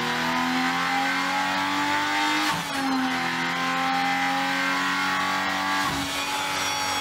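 Stellantis 3.0L Hurricane twin-turbo inline-six running hard on a gimbal dynamometer through a simulated racetrack lap. The engine note climbs slowly and dips sharply twice, about two and a half seconds in and again near six seconds. It is a critical oil level durability test: speed, power and cornering attitude are replayed to check that the engine is not starved of oil.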